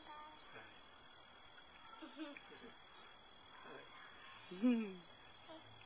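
Cricket chirping steadily, about three short high chirps a second.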